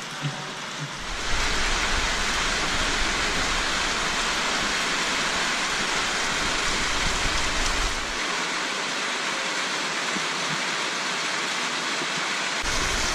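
Steady rain falling, an even hiss that comes in about a second in and holds without a break.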